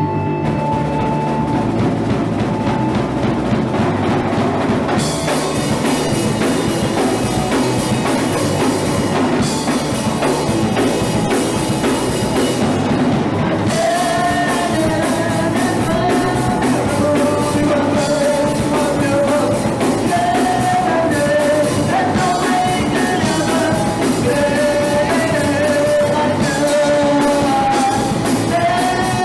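Punk rock band playing live: drum kit and guitars. Cymbals fill in about five seconds in, and a wavering melody line rises above the band from about halfway through.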